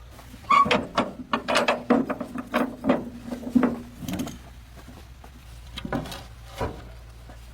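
A quick run of sharp knocks and rattles, with a steady tone held for about two seconds in the middle, then two more knocks near the end, over a low steady hum.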